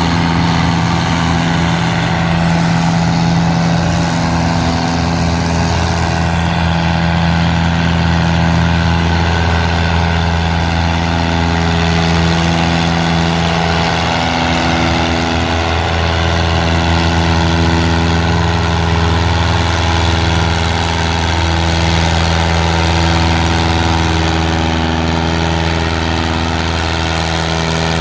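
Farm tractor engine running steadily at constant speed, its pitch holding level.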